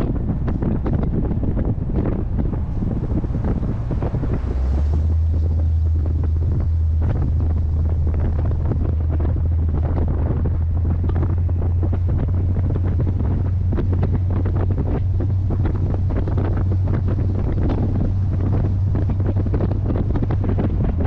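Heavy wind buffeting on the microphone of a moving C3 Corvette, over the low steady drone of its small-block 350 V8 cruising. The low drone settles in and strengthens about four seconds in.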